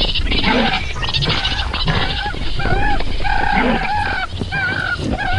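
Cartoon sound effect of barnyard fowl calling: a rapid series of short, wavering honks or squawks.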